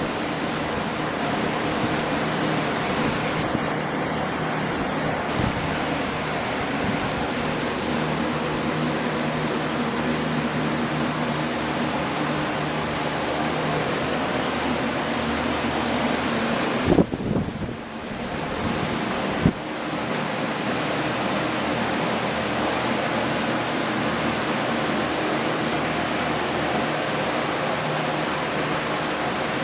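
Water-damage drying fans running with a steady whir and a low hum. About 17 seconds in, a knock is followed by a brief drop in the noise, with a second knock a couple of seconds later.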